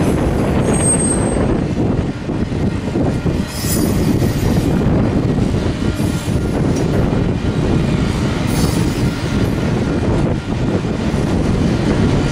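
Freight cars rolling past on steel rails: a steady rumble of wheels on track, with a few short high-pitched wheel squeals, around four and eight and a half seconds in.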